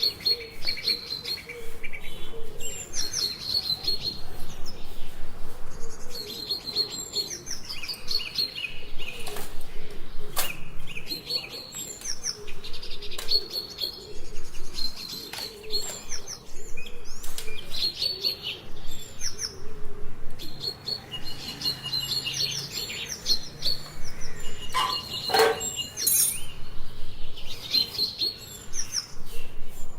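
Small birds chirping and twittering, many short repeated calls overlapping throughout, with a couple of sharp clicks about ten seconds in.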